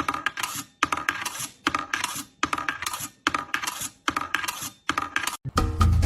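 Repeated bursts of rattling, clicking clatter, about one a second, like small hard objects being shaken or dropped. Music with a heavy bass beat comes in near the end.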